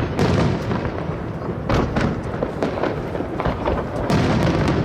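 Aerial fireworks shells bursting over the sea: deep booms about a second or two apart, with crackling between them and a low rumble that carries on underneath.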